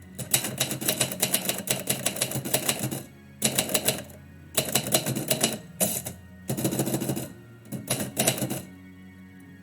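Typewriter typing in five quick runs of keystrokes with short pauses between them, the longest run lasting almost three seconds, then stopping about a second before the end.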